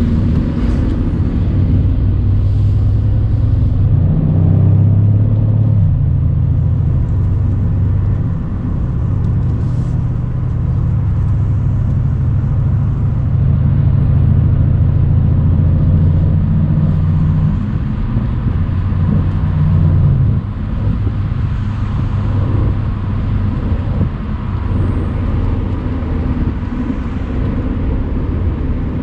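Mercedes-AMG C63's twin-turbo V8 running steadily while cruising, with road and wind noise through the open convertible top. The engine note strengthens briefly a few seconds in and eases off about twenty seconds in.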